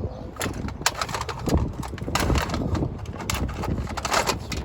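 Irregular clicks and knocks of small metal parts and hand tools being handled during repair work.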